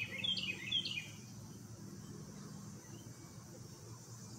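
A songbird singing a short phrase of about three quick, downward-slurred whistled notes in the first second, then falling silent, over a faint low background hum.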